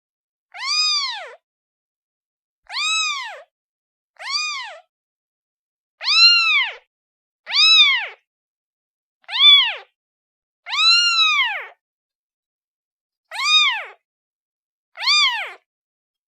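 Kitten meowing over and over to call its mother: nine high-pitched meows, each rising then falling in pitch, about every one and a half to two seconds with silence between.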